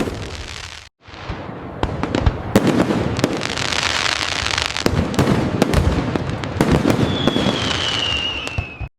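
Fireworks display: a dense run of sharp bangs and crackling, broken by a brief moment of silence about a second in. Near the end a whistle glides slowly downward over the bangs.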